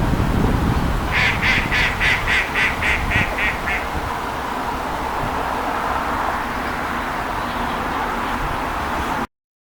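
A gull calling a quick series of about ten harsh notes, three or four a second, for about three seconds, over steady outdoor background noise.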